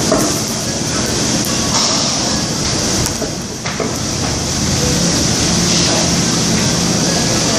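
Steady, loud hissing background noise of a busy restaurant, broken by a few short knocks and clatters.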